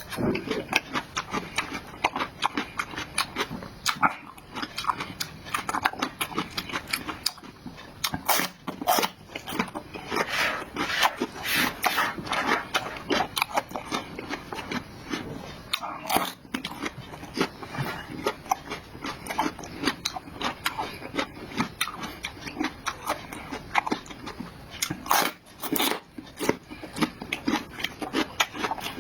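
A person chewing and biting food close to the microphone: a steady run of wet smacks and clicks, with occasional louder bites.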